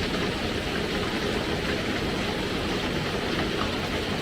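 Steady, even rushing of heavy rain.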